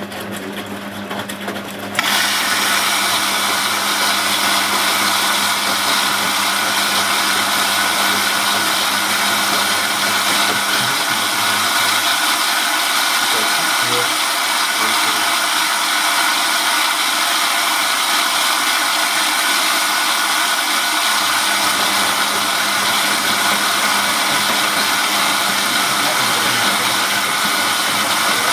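Zanussi Z913 washing machine running. A low hum gives way about two seconds in to a sudden loud, steady rushing noise that holds at an even level.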